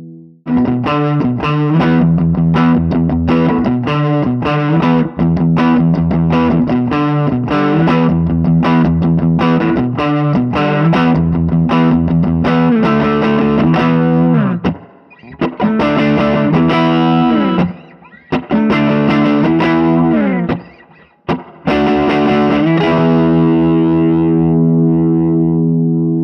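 Electric guitar played through a tube amp set at edge-of-breakup gain, a lightly crunchy riff of chords and single notes with a few short breaks, ending on a chord left to ring out.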